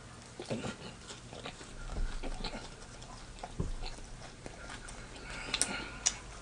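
Close-miked chewing and mouth noises of a man eating a sandwich: irregular smacks and clicks, with a couple of sharper clicks near the end.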